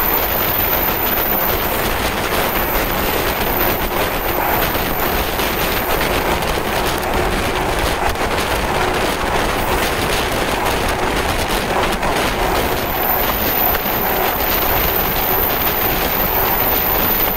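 JR 185 series electric train running at speed, its steady rumble and rail noise unbroken.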